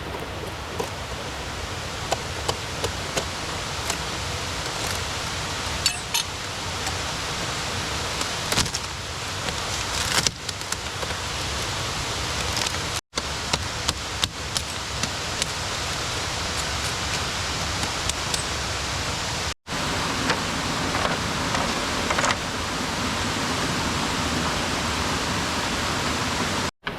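Steady rushing of river water with scattered light knocks and clicks on top; the sound breaks off abruptly three times, once about halfway, once about two-thirds in, and once near the end.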